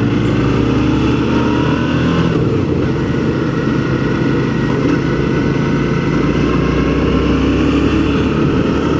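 Suzuki V-Strom 650 V-twin motorcycle engine pulling uphill in a low gear, heard from the rider's position with wind noise. The engine note rises over the first couple of seconds, dips briefly about two and a half seconds in, then holds fairly steady.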